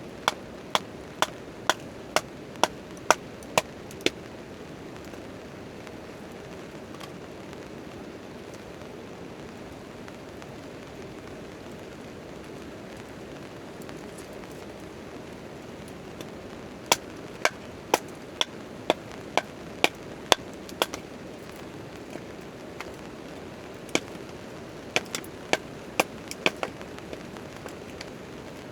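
Steady hiss of rain on a tent tarp, broken by three runs of sharp, evenly spaced knocks, about two a second: one at the start, one a little past the middle and a shorter one near the end.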